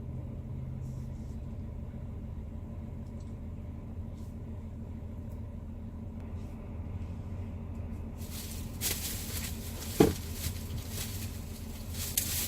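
Semi truck's diesel engine idling with a steady low hum. About 8 seconds in a hissing noise joins, and a single sharp knock comes about 10 seconds in.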